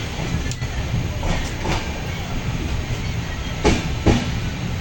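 Moving passenger train heard from inside a carriage: a steady rumble of wheels on track, with a double clack from the wheels crossing a rail joint about three and a half seconds in.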